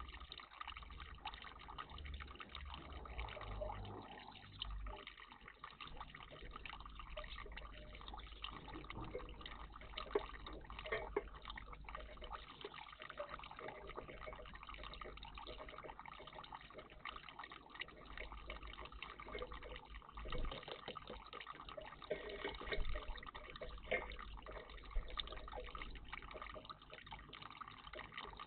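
Water trickling and dripping steadily in a bird bath, with many small drips and splashes.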